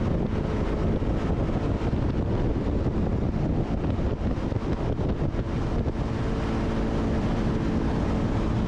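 Wind rushing over the microphone at highway speed on a Honda CB300R, with the bike's single-cylinder engine humming steadily underneath; the engine's tone stands out more clearly from about six seconds in.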